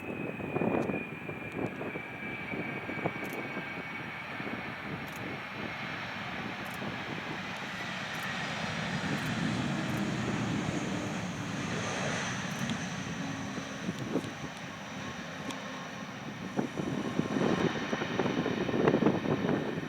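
Boeing 767 jet airliner landing, its twin turbofan engines running with a high whine that falls in pitch as it passes, then a broad rumble that swells and fades. Gusts of wind hit the microphone near the end.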